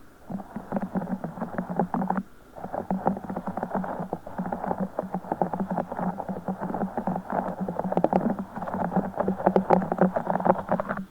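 A broken Orbeez ball being squished and squeezed by hand, its water-gel beads giving rapid wet crackling squelches, with a brief pause about two seconds in.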